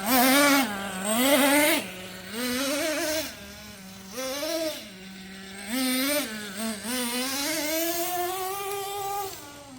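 Traxxas T-Maxx 3.3 RC monster truck's small two-stroke nitro engine revving in short throttle blips, dropping back to a buzzing idle between them, then holding a longer climbing rev near the end.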